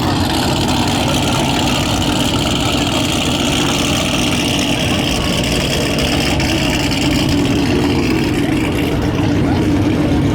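A vehicle engine running steadily, a continuous drone with no change in speed.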